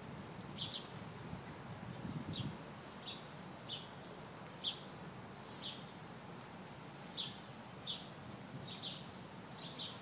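A bird repeating a short, high chirp about once a second.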